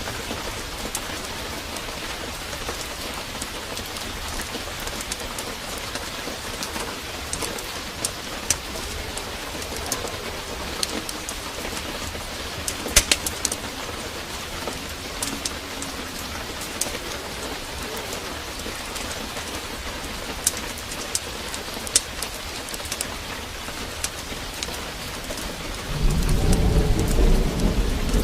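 Steady hiss of heavy rain, with scattered sharp crackles from a fireplace fire. Near the end a low rumble of thunder comes in and grows louder.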